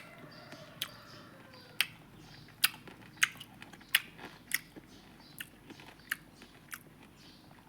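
A series of about ten sharp, short clicks or taps, spaced a little under a second apart.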